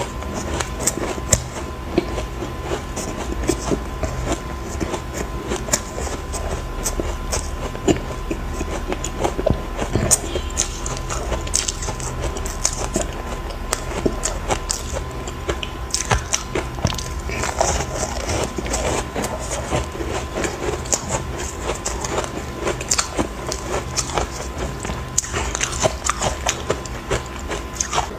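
Chunks of ice bitten and chewed close to the microphone: a dense, continuous run of sharp cracks and crunches.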